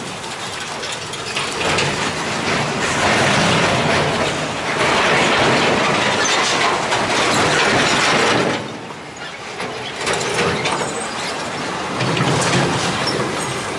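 Heavy truck noise: engine and rattling, clattering bodywork of a truck labouring through a difficult stretch of road. The level swells and falls, dropping briefly about nine seconds in before it picks up again.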